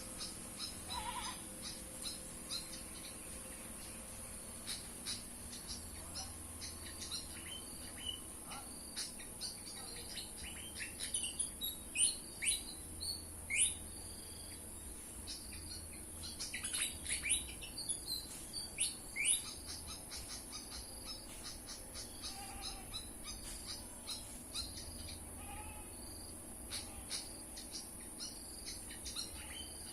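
Small songbirds chirping, with scattered short high notes throughout and two busier runs of sharp falling calls, one a third of the way in and one just past halfway. A steady high hiss runs underneath.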